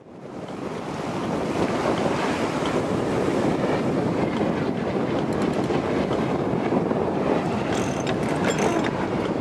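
Wind buffeting the microphone over water rushing along a sailboat's hull while under way, a steady noise that fades in over the first second. A few faint clicks come near the middle and toward the end.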